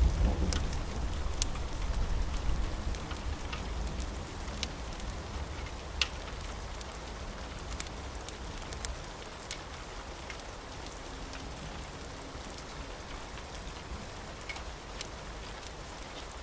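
Steady rain with scattered sharp drip ticks, and a low rumble of thunder fading away over the first half.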